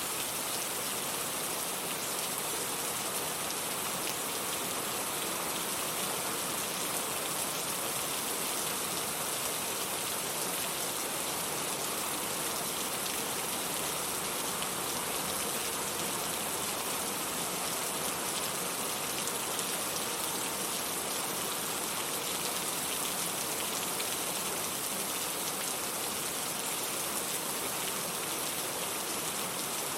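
Steady, constant rain falling, an even hiss of drops with no change in strength.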